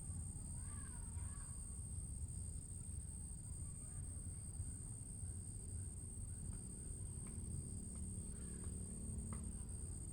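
Faint, steady high-pitched insect chirring with a softer pulsing layer about once a second, and a few faint wavering bird chirps in the first couple of seconds.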